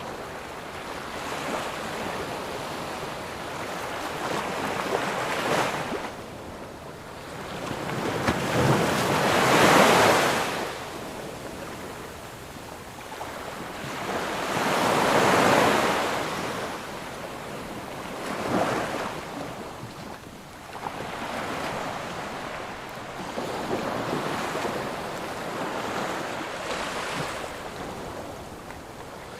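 Ocean waves breaking and washing up on a sandy beach, each surge swelling and fading every five or six seconds, with the largest breakers about ten and fifteen seconds in.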